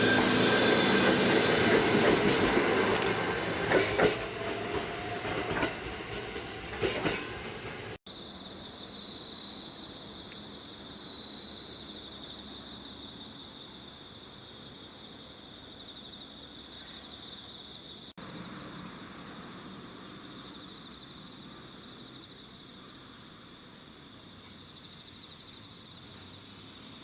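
Old JNR-type electric train running on the rails, with wheel noise, a squeal and a couple of sharp clunks, loud for the first several seconds. After a cut, the sound drops to a much quieter steady background with a thin high whine.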